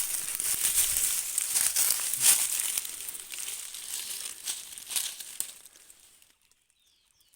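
Dry rustling and crackling, many small crackles close together, that dies away to near silence about six seconds in.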